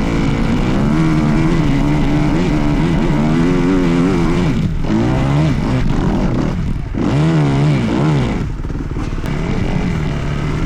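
Dirt bike engine being ridden, its pitch rising and falling with the throttle, briefly cut off about three times before picking up again.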